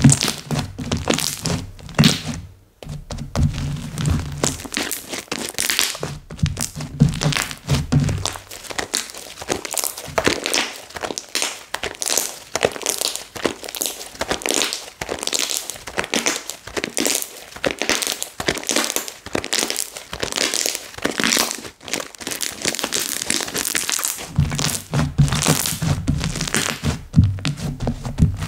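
Slime being squished, pressed and poked by hand, giving a dense, irregular run of wet clicks and pops. A low thudding joins in for the first several seconds and again near the end.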